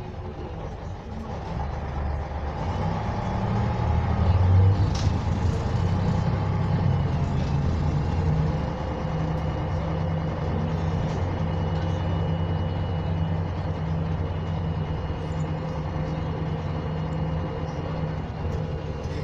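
MAZ-104 city bus heard from inside the cabin while driving: its YaMZ-236M2 V6 diesel engine grows louder over the first few seconds as the bus pulls, then runs steadily, with road noise underneath.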